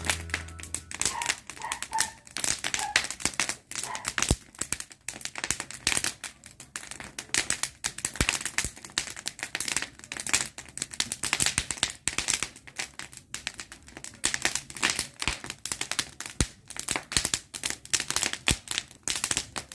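Bonfire crackling, a dense run of sharp, irregular snaps and pops.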